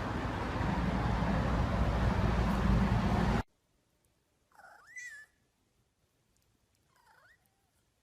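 A loud, rough noise cuts off suddenly about three and a half seconds in. Then a cat meows twice: first a meow that rises and falls in pitch, then a shorter, fainter one about two seconds later.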